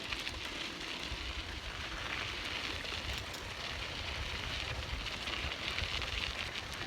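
Bicycle tyres rolling over a desert dirt road, a steady crackling hiss, with a constant low rumble underneath.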